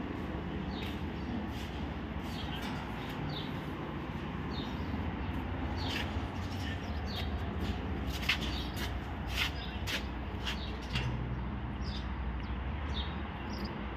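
Small birds chirping in short, scattered calls, busiest in the middle, over a steady low rumble.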